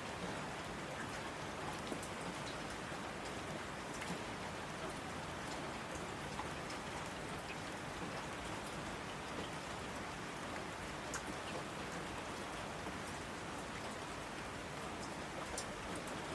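Steady rain falling: a dense, even hiss sprinkled with the small ticks of single drops.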